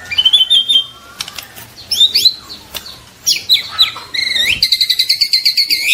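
Juvenile white-rumped shama singing: varied whistled phrases with rising sweeps, then, about four seconds in, a fast run of quickly repeated notes.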